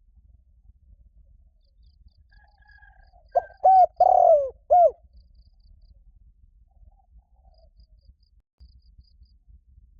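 Spotted dove cooing: one phrase of four notes about three and a half seconds in, the third note the longest. Faint high chirps of small birds come and go around it.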